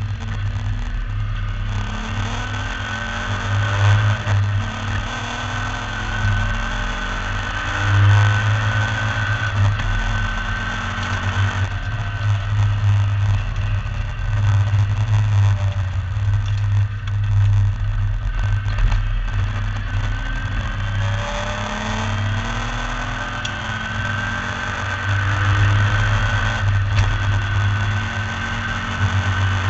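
MGB V8 race car's V8 engine under hard acceleration, heard from on board: the revs climb repeatedly and drop back at each gear change, over a heavy, steady low rumble.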